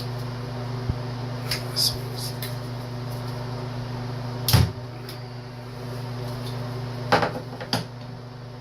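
Metal clicks and knocks of a wrench and small carburetor parts being handled while the 10 mm bolt under the float bowl is worked loose, with the loudest clunk about halfway and two more near the end. A steady low hum runs underneath.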